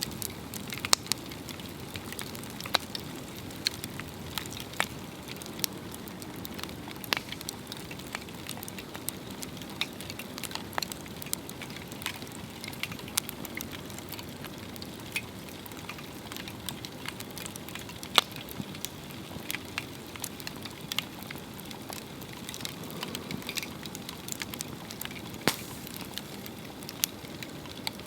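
Swedish torch log fire burning, with a steady low roar and irregular sharp crackles and pops of the burning wood. The loudest pops come at about 18 and 25 seconds in.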